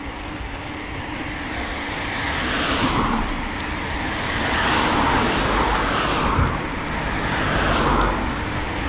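Cars passing on a main road, their tyre noise swelling and fading about three times.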